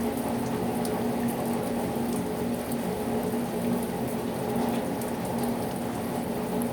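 Heavy rain falling steadily: a dense, even rush of water with fine drop ticks scattered through it.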